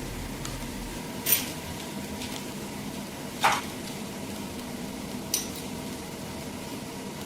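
Three short metallic clinks, a couple of seconds apart, from metal tools or parts being handled and set down, over a steady low workshop hum.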